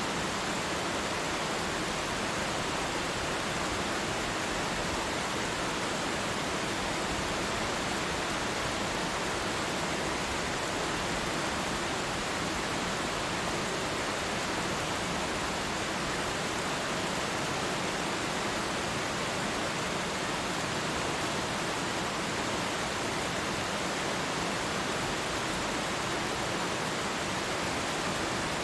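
Twin waterfall pouring steadily: an even, unchanging rush of falling water.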